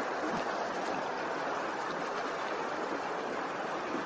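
Steady running water, an even rushing with no change in level.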